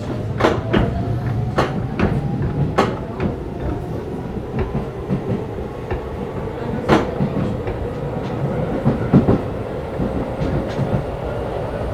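Keisei 3500-series train running, heard from inside a motor car: a steady running rumble with a faint whine slowly rising in pitch as the train gathers speed, and irregular clacks of the wheels over rail joints.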